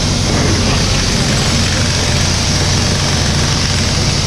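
Mini excavator's diesel engine running steadily, a constant low drone with noise over it.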